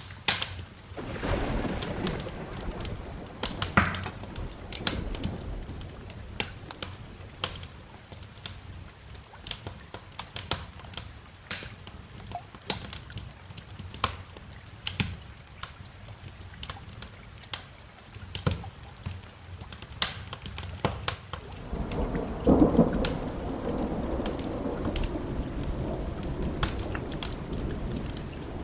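Thunder rumbling over steady rain, with a wood fire crackling and popping throughout. One rumble swells about a second in and a longer one builds in the last third.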